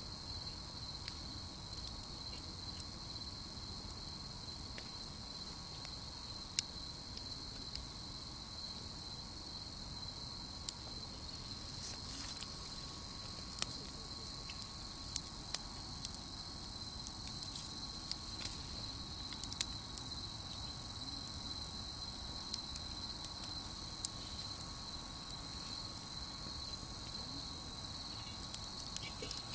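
Crickets trilling in a steady, unbroken high chorus, with scattered sharp pops and crackles from a wood campfire.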